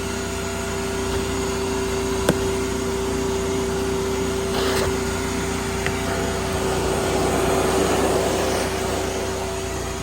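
Steady machine hum with one constant mid-pitched tone, from a running motor. A brief hiss comes about five seconds in, and a rustling noise swells and fades between about six and nine seconds.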